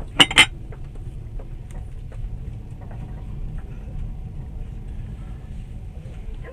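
Passenger train running, heard from inside the carriage: a steady low rumble with scattered faint ticks, and two sharp loud clacks in quick succession just after the start.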